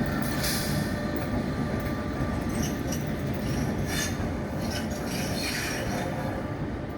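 Train running on the rails: a steady rumble of wheels with a few short high squeals of wheel on rail, slowly fading.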